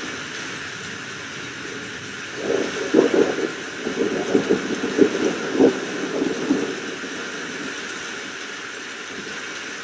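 Steady rain hiss with a peal of thunder that breaks in about two seconds in as a run of rapid cracks and rumbles, dying away after about five seconds.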